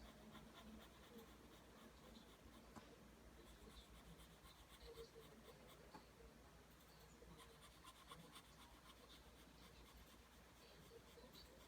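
Pencil scratching on paper, drawing lines in faint, continuous, irregular scratchy strokes.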